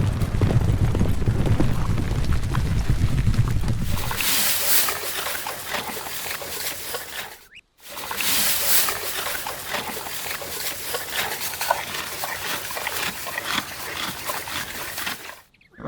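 Horses running: a dense run of hoofbeats mixed with animal noises, heavy in low rumble for the first few seconds. It cuts off sharply about seven and a half seconds in, then resumes.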